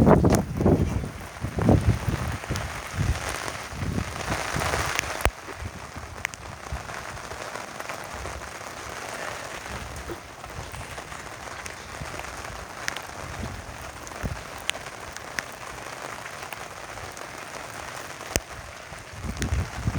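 Heavy rain falling in a steady hiss, with scattered drops ticking sharply. For the first few seconds, gusts of wind buffet the microphone.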